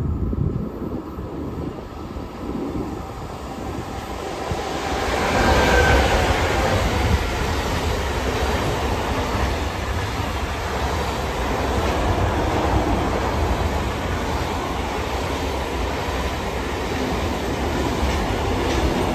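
Double-headed electric freight train passing close: the locomotives' motors and fans swell to a peak about five seconds in, with a pitch that falls as they go by, then a steady rumble and clatter of container and tank wagons rolling past.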